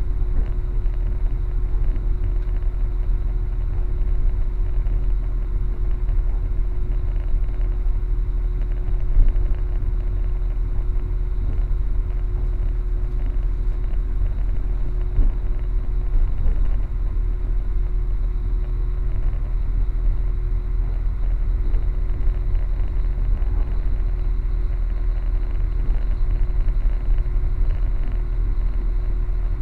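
Train running, heard from inside the carriage: a steady low rumble with a constant hum over it.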